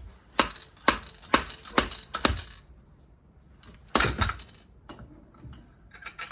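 Metal fork parts (washers, rings, tube) clinking and knocking against each other while a motorcycle front fork is handled and taken apart. It goes as a run of sharp clinks, about five in the first two and a half seconds, then a close cluster about four seconds in and a few more near the end.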